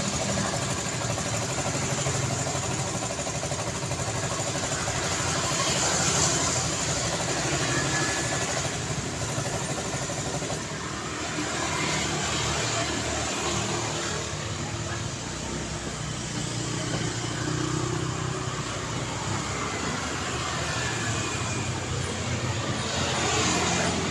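Continuous road traffic: a steady wash of engines and tyre noise as vehicles pass, swelling and easing gently with no single loud event.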